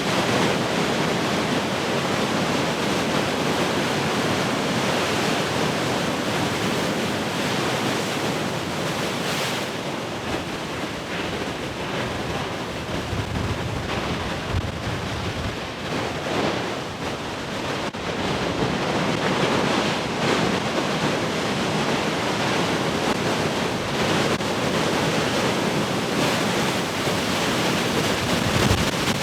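Heavy ocean surf: waves breaking and washing in a continuous rush, with wind buffeting the microphone.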